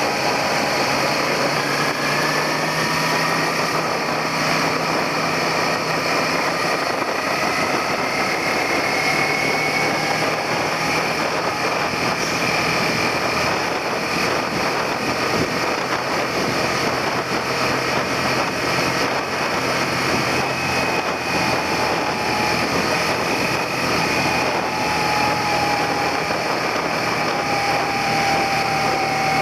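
Suzuki SV400's 90-degree V-twin engine running under way, its pitch drifting slowly up and down, over a steady hiss of wind and road noise.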